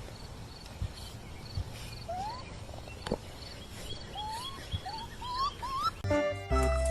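An animal giving a series of short rising chirps that come more often toward the end, over faint high-pitched chirping. Music starts near the end.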